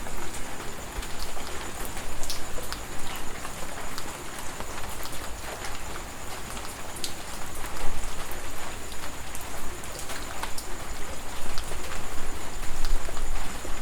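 Steady heavy rain falling, with many separate drops tapping sharply close by.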